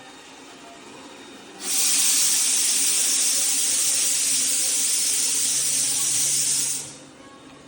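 A steady, loud hiss that starts suddenly about a second and a half in, holds for about five seconds and cuts off sharply.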